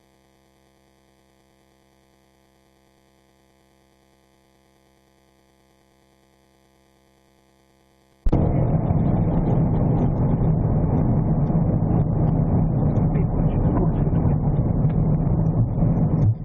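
A faint steady electrical hum, then about eight seconds in a sudden cut to loud, steady vehicle noise of a patrol car driving, heard from inside the cabin.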